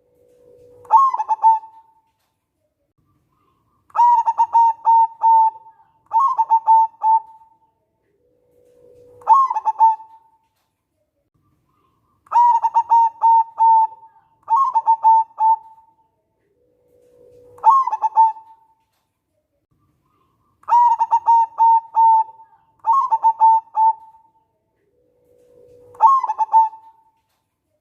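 Zebra dove (local perkutut) singing its cooing song. Each phrase opens with a held low note that jumps sharply up in pitch. After a short pause comes a long run of quick, even coos at the higher pitch. The phrase repeats about every eight seconds, three times.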